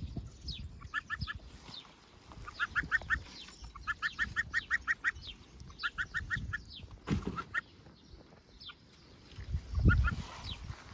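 Young poultry peeping: quick runs of short, high peeps, several a second, mixed with single falling chirps. A couple of low thumps come about seven and ten seconds in.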